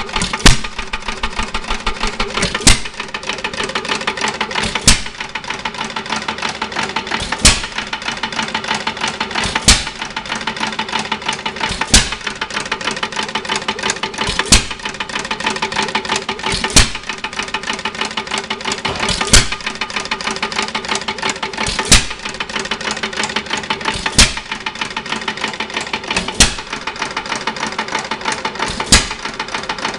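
1 3/4 hp United single-cylinder hit-and-miss engine running: a sharp firing bang about every two and a half seconds, with a fast, even clatter as it coasts between firings.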